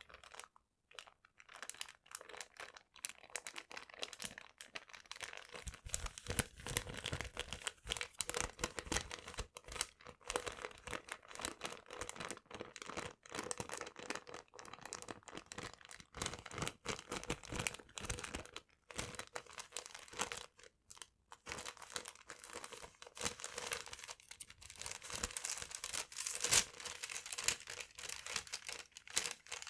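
Paper being crumpled and crinkled close to the microphone: a dense, continuous run of crackles with a few short pauses.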